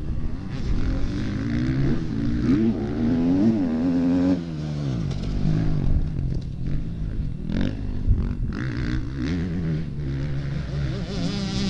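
Motocross bike engines revving, the pitch climbing and dropping sharply with throttle and gear changes; after about four seconds the pitch falls away and a steadier, lower engine sound carries on.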